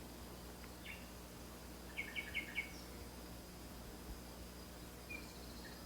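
Birds chirping faintly in nature ambience: a single short chirp about a second in, a quick run of four chirps about two seconds in, and another short chirp near the end, over a faint steady high-pitched tone.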